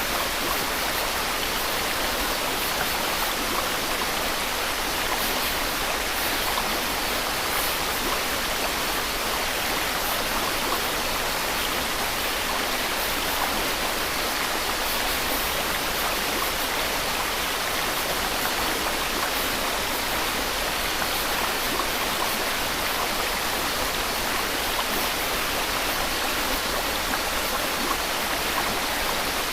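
Steady white-noise hiss, even and unchanging throughout.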